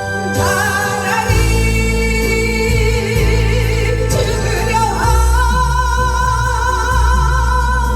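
A singer performing a Korean trot song live over a karaoke-style backing track, holding two long notes with vibrato, the second beginning about five seconds in, above a steady bass line.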